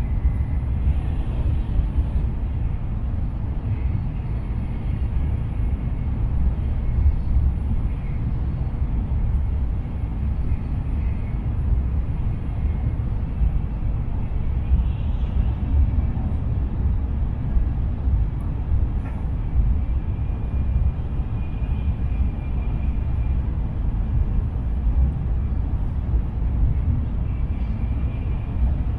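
Shinkansen bullet train running, heard from inside the passenger cabin: a steady low rumble, with a faint high whine that comes and goes.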